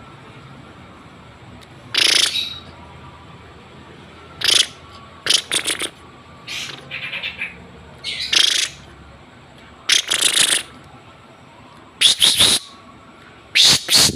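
Pet birds giving short, loud, harsh calls about every one to two seconds, some broken into quick stuttering notes.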